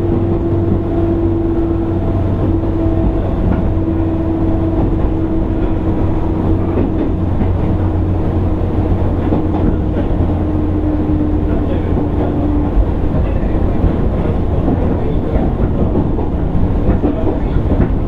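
A JR East 205 series electric train motor car running along the line: a steady rumble of wheels on rail with scattered clicks from the track. A hum drifts slowly lower in pitch and stops about two-thirds of the way through.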